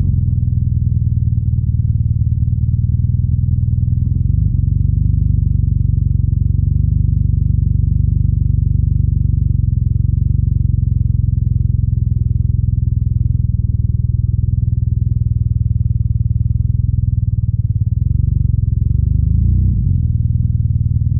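BMW R nineT's air/oil-cooled boxer twin running at low, steady revs, a deep even exhaust note. Near the end the revs rise briefly and drop back.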